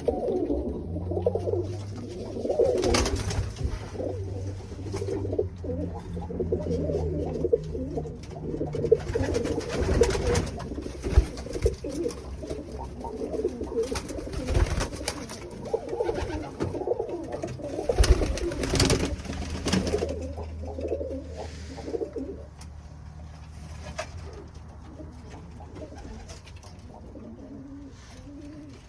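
Tippler pigeons cooing together in a loft, with several brief sharp clatters among them. A low steady hum sits underneath and fades about twenty seconds in, where the cooing also thins out.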